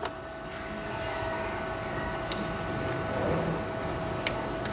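Steady hum of a small cooling fan, with a few light clicks as the wire-feed drive roller is handled.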